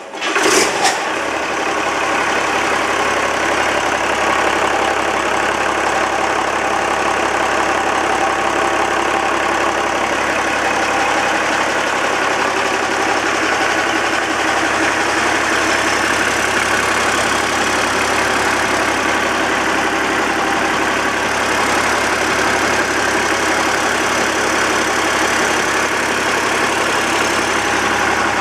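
Perkins 1006.6T six-cylinder turbodiesel engine firing up with a brief loud burst in the first second, then idling steadily.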